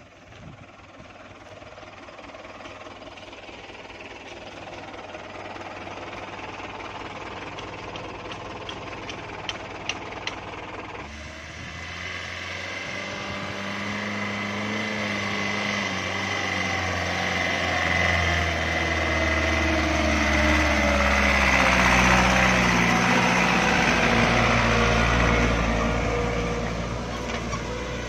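Light diesel truck carrying a load of sand and gravel, its engine working under load and getting louder. About eleven seconds in the sound changes abruptly to a closer, louder engine note whose pitch shifts, loudest a little past the middle.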